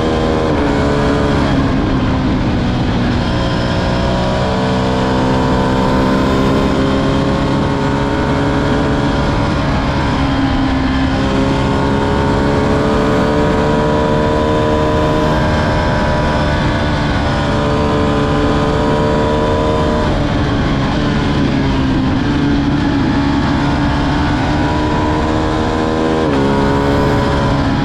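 Ducati Streetfighter V2's 955 cc V-twin engine running under way, its note climbing slowly and then dropping sharply several times, about every few seconds to ten seconds, as if through gear changes.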